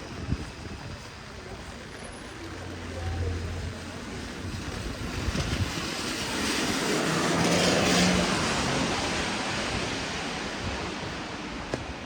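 Steady hiss of heavy rain on a city street. A vehicle passes on the wet street, swelling from about six seconds in to a peak near eight, then fading.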